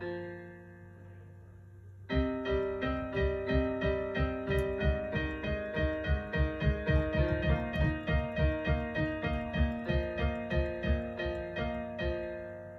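Piano playing a simple melody: a held chord dies away for about two seconds, then a steady run of quickly repeated notes over a bass line starts and carries on, fading out near the end.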